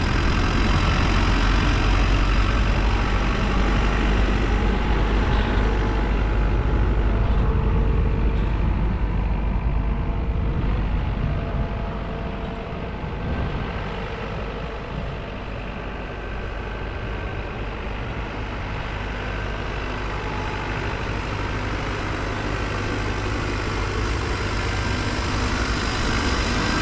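Cat 434E backhoe loader's diesel engine running steadily as the machine drives a tight circle, a little quieter around the middle and building again near the end.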